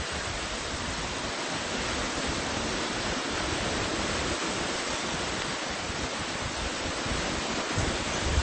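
A steady rushing noise, with a few low rumbling bumps near the end.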